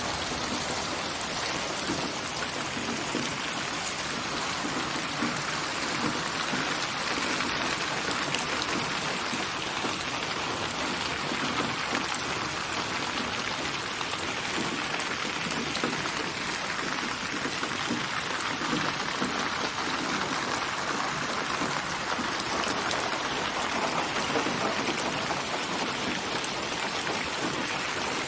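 Steady rain falling: an even hiss of many small drops.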